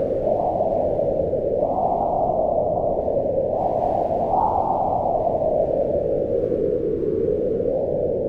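Wind blowing steadily as a low rushing noise that swells twice in the first half and then eases.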